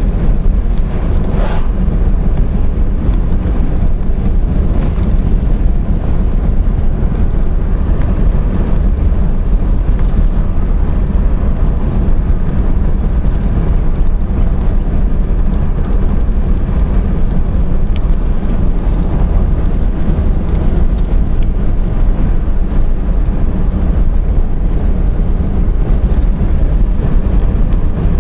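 A car driving along a road: steady, loud, low engine and road rumble.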